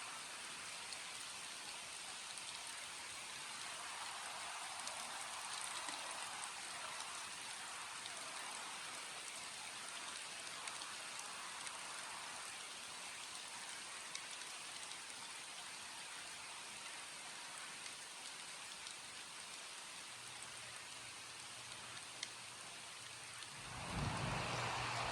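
Steady rain falling, an even hiss with scattered drops ticking on a surface. Near the end a louder low rumble swells up briefly.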